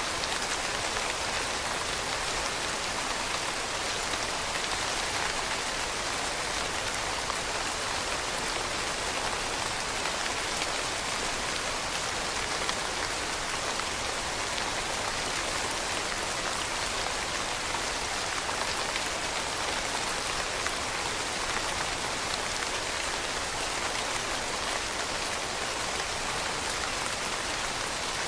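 Steady rain falling on leaves, a dense even patter of countless small drops.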